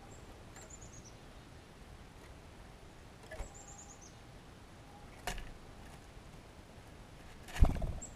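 A small songbird giving a quick series of five or six very high notes that fall in pitch, twice. Sharp knocks come three times in between, the loudest near the end.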